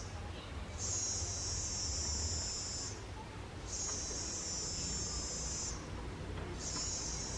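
An insect trilling high and buzzy in repeated bursts, each about two seconds long with pauses of under a second between them, over a steady low rumble.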